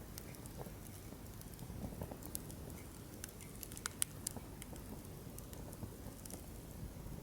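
Wood fire in a campfire stand burning steadily, its flames giving a low rumble with irregular crackles and sharp pops from the burning logs, the loudest pop about four seconds in.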